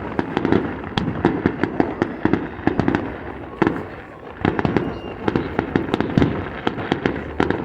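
Aerial fireworks going off in a rapid string of sharp bangs, several a second, with a brief lull about four seconds in.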